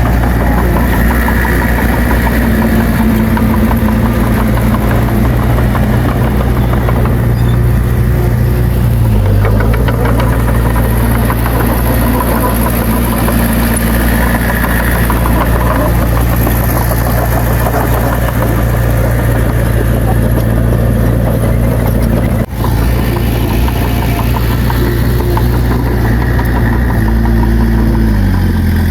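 Heavy diesel engine of earthmoving equipment running steadily and loud, its pitch dipping briefly about nine seconds in and again near the end. There is a momentary break in the sound a little past twenty seconds.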